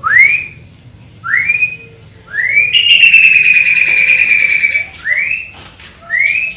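Sooty-headed bulbul (kutilang) song: clear whistled notes, each short one rising quickly in pitch. Three come in the first half, then one long whistle of about two seconds that slowly falls, then two more short rising notes.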